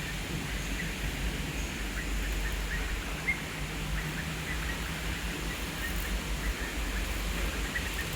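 Rain falling steadily: an even hiss with many small scattered ticks and a low rumble underneath.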